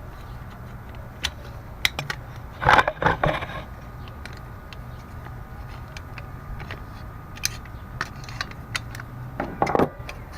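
Small metal clicks and clatter of hand tools working on a chainsaw's muffler bolts with a Torx bit, with a louder burst of clattering about three seconds in and again near the end.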